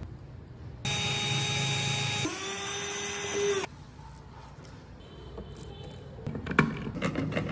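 A small electric power tool whines steadily for about three seconds, drops in pitch partway through, then cuts off suddenly. Quieter scraping and a few sharp clicks follow near the end.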